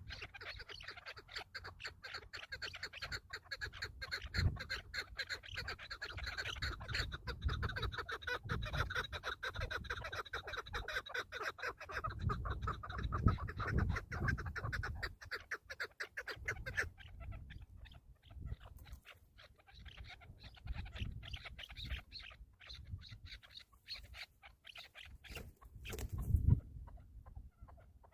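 Chukar partridge calling: a fast run of clucking chatter that thins out after about seventeen seconds, over low thumps.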